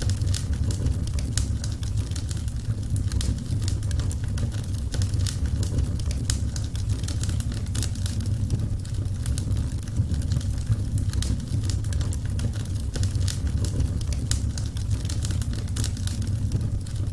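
Wood fire burning, with many small irregular crackles and pops over a steady low rumble.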